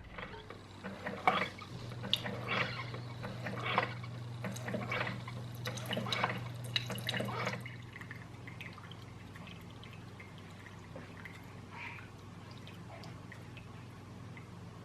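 Coffee maker brewing: a steady hum for about six seconds with water trickling and dripping, then only faint drips.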